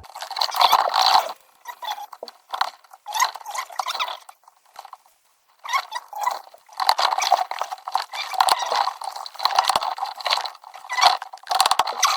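Irregular bursts of close crackling and rustling, handling noise from hands working right by the microphone, with a short gap a little before the middle.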